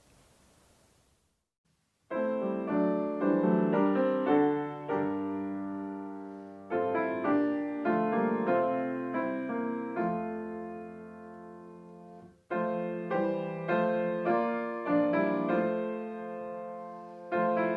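Piano music begins about two seconds in, after a brief near-silence, with struck notes and chords fading between strikes. It pauses briefly about twelve seconds in and then carries on.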